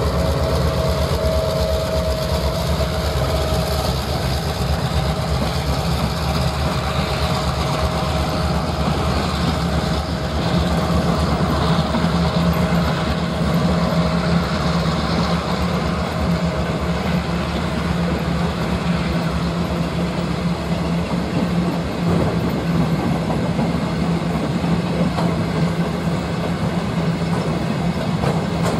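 Diesel freight train locomotive running steadily, a low engine drone with rail noise over it.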